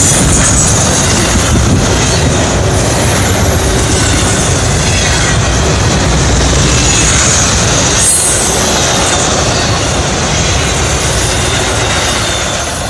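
Freight train of double-stack container cars and trailer-carrying spine cars rolling past close by: a steady, loud rumble and clatter of steel wheels on rail, with thin high-pitched wheel squeals coming and going. The noise eases a little near the end.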